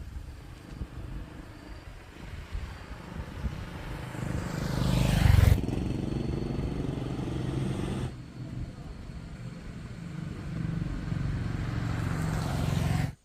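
A motor vehicle's engine, swelling to its loudest about five seconds in, then running steadily until the sound cuts off suddenly near the end.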